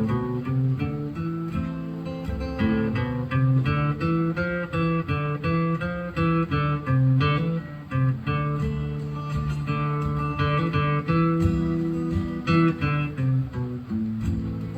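Solo acoustic guitar playing an instrumental passage between verses: fingerpicked or lightly strummed notes and chords.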